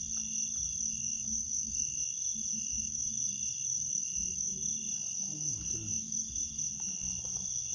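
Crickets and other insects chirring in a steady chorus, with a lower-pitched call pulsing a little under twice a second.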